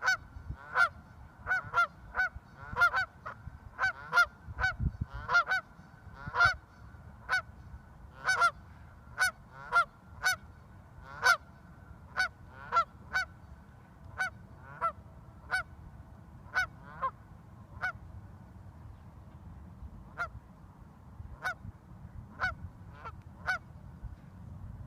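A goose honking over and over, short calls about once a second, becoming sparser with longer gaps toward the end.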